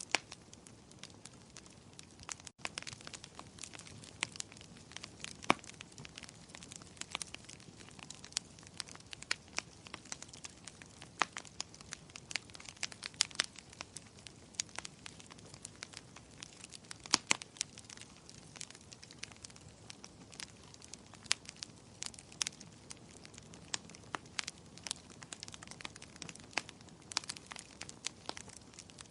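Wood fire crackling in a fireplace: irregular sharp pops and snaps over a low steady hiss.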